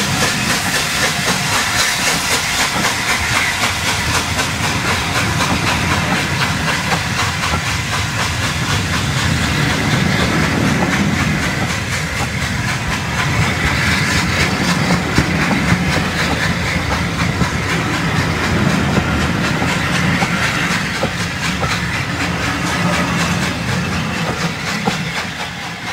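Steam locomotive 60163 Tornado, an LNER Peppercorn A1, and its train running past: a continuous steam hiss over the clatter of wheels on rail. The sound dies away near the end.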